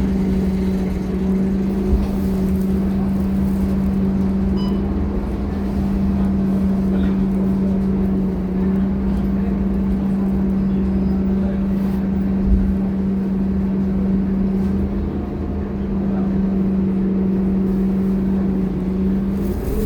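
Scania K230UB city bus running, with a steady droning hum over a low rumble and a couple of brief low thumps.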